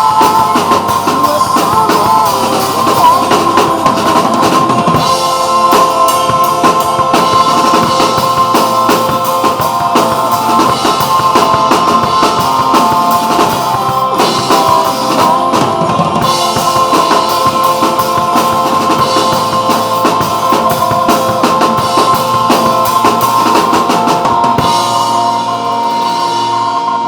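Drum kit played live over the backing track of a pop ballad, with kick and snare driving under sustained instrumental notes. Near the end the drumming drops out and held notes of the track ring on.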